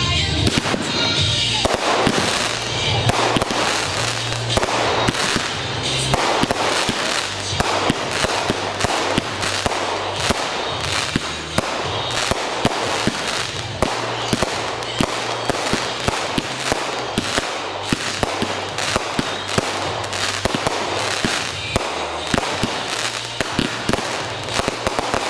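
A fireworks barrage: aerial shells bursting and crackling with many sharp bangs in quick succession, with music playing underneath.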